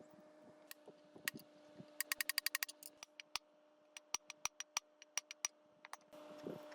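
A series of sharp clicks: a few single ones, then a fast run of about ten in a second, then slower single clicks, over a steady low hum.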